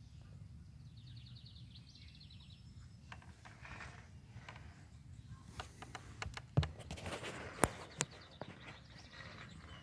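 A wild bird gives a rapid trill of high repeated notes about a second in, over steady outdoor background noise. Later comes a run of sharp clicks and knocks, two of them loud.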